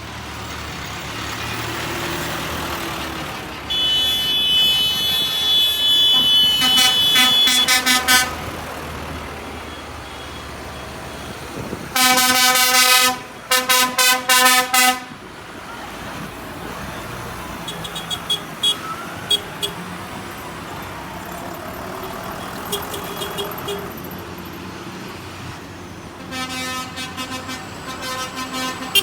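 A procession of tractors driving past with engines running while their horns toot repeatedly: a long sounding a few seconds in, two loud blasts about halfway, fainter toots after that and more near the end.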